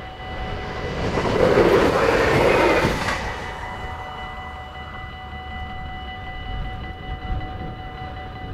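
A train passes the level crossing at speed, its noise swelling quickly and fading away within about three seconds. The crossing's warning bells keep sounding steadily throughout.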